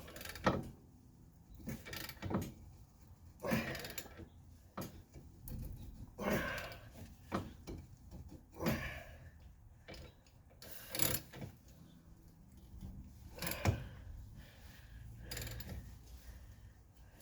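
Metal hand tools clicking, clanking and scraping in irregular strokes about every second or two, worked against a shaft stuck fast in a car's lower control arm bushing.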